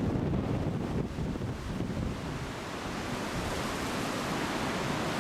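Wind buffeting the camcorder microphone, a steady rush of noise in the blustery aftermath of a hurricane.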